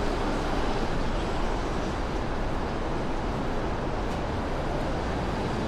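Steady city street noise: a continuous low rumble of vehicles, with no single event standing out.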